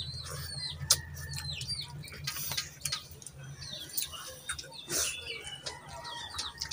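Small birds chirping over and over in short hooked calls, over a steady low hum, with scattered light clicks.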